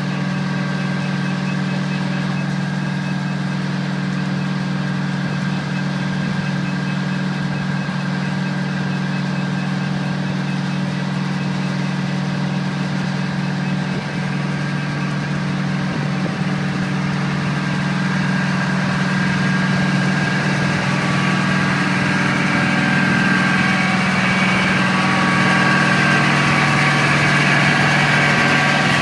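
Heavy truck diesel engine idling steadily, likely the fire truck's Detroit Diesel Series 92 two-stroke. It grows a little louder and brighter in the last third.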